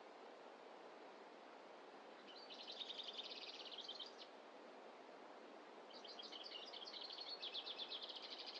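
A small songbird singing two rapid, high trills of about two seconds each, one in the first half and one running to the end, over a faint steady background rush.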